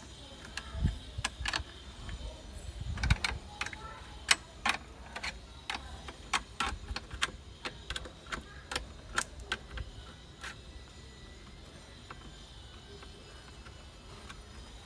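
A run of sharp, irregular clicks, about two a second, that stops after about ten seconds, over a steady low rumble, with a couple of duller low thumps in the first few seconds.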